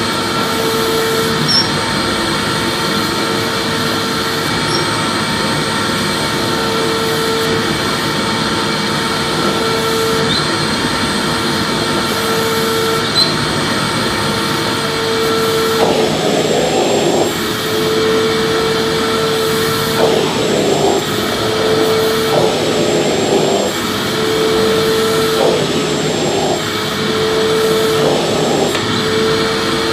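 Vacuum cleaner running continuously: a steady rushing motor noise with a mid-pitched hum that drops out briefly every couple of seconds. From about halfway through, irregular rougher surges break in.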